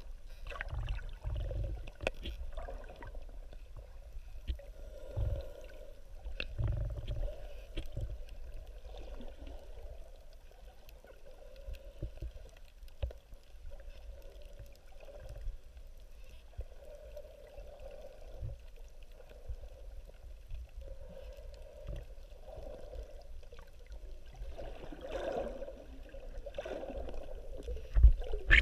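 Muffled water sloshing and gurgling, with irregular low thumps and a few light clicks.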